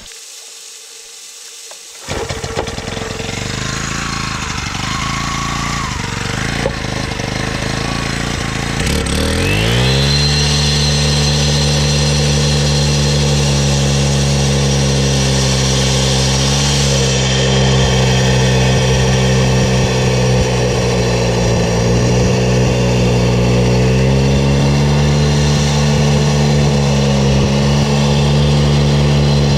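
Makita EK7650H four-stroke concrete saw engine running low, then revving up sharply about nine seconds in and held at full throttle, its pitch sagging slightly a few times as the blade cuts into a thicker piece.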